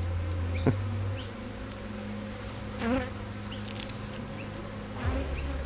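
Honeybees buzzing in a steady hum from an opened hive. A single sharp click comes just under a second in, and there is a brief wavering buzz about three seconds in.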